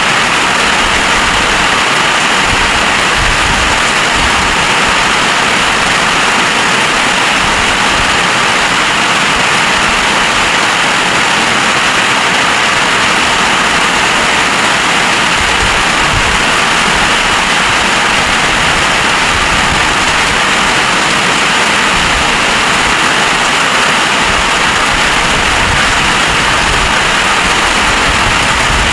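Heavy storm rain pouring down in a steady, loud hiss, with irregular low rumbles of wind buffeting the microphone.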